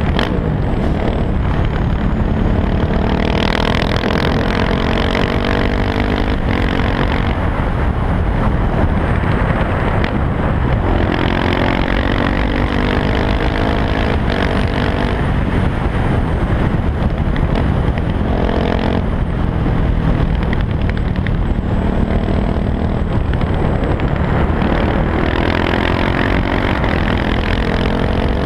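KTM 690 SMC R's single-cylinder engine through an Arrow exhaust with the dB killer removed, accelerating repeatedly. The pitch climbs, drops at each gear change, and climbs again several times.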